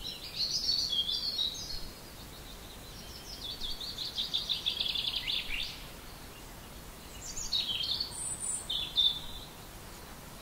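Songbirds singing in three high phrases, the middle one a fast trill of rapidly repeated notes, over a steady background hiss.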